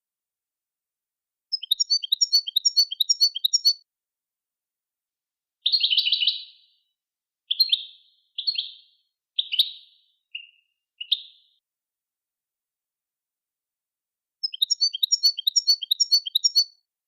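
A songbird's song recorded for tutoring captive birds: a fast run of rapidly repeated high notes, then six short separate notes spaced about a second apart, then the fast run again near the end, with clean silence between phrases.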